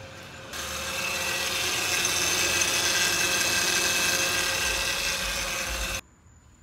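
A Honda Ridgeline's 3.5-litre V6 engine running, heard up close under the open hood: a steady whir with whining tones in it. It starts about half a second in and cuts off abruptly about six seconds in.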